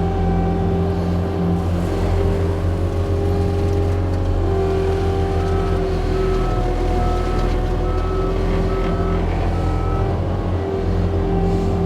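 John Deere 335P skid steer's diesel engine running steadily under load while driving a forestry mulcher head. Partway through, a run of short high beeps sounds about twice a second.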